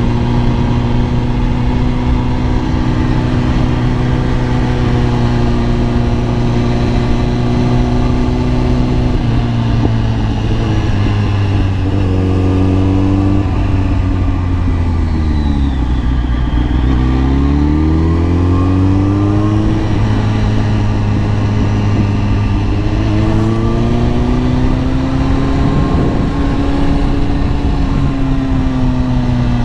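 Kawasaki ZX-10R inline-four engine running at a steady cruise, then dropping in pitch about halfway through as the bike slows, and climbing again as it accelerates back up to a steady note, over a constant rush of wind noise.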